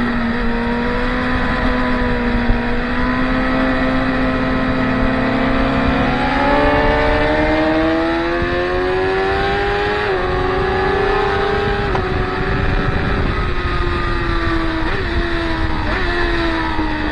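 Track-day motorcycle engines running at high revs. The engine note holds, climbs for several seconds around the middle, dips briefly twice, then falls away.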